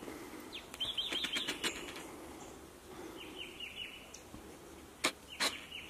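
Wild birds chirping: a quick run of short, falling notes about a second in and another around the middle. Two sharp clicks come near the end.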